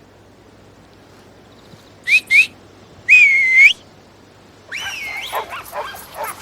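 A person whistles two short notes, then one longer note that dips and rises again: whistling to call the dogs. About a second later several dogs start yipping and barking in answer.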